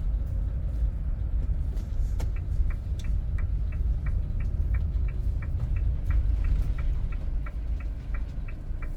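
Low road and engine rumble inside a moving motorhome's cab. About two seconds in, a turn-signal indicator starts ticking at an even pace, roughly three clicks a second.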